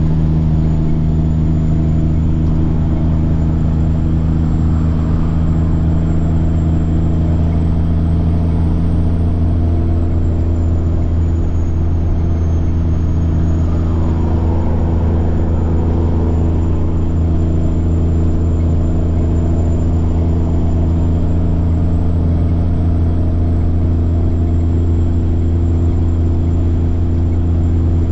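Semi-truck diesel engine running steadily at cruise, a deep drone, with a thin high turbocharger whine above it that rises and falls slightly twice.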